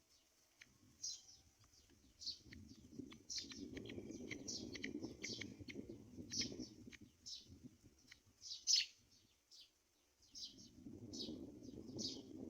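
Small birds chirping: a rapid run of short, high, downward-sweeping chirps, the loudest one about nine seconds in, over an on-and-off low rumble.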